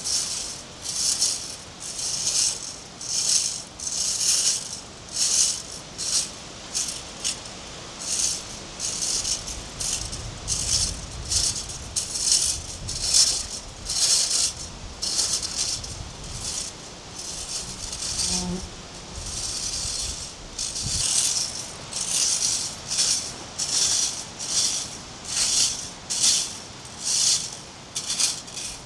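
Rhythmic scraping strokes of a hand tool worked back and forth over a surface, about one and a half strokes a second.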